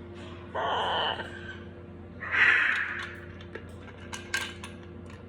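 Baby parrots squawking: two harsh calls about a second and a half apart, followed by a few light clicks and taps near the end.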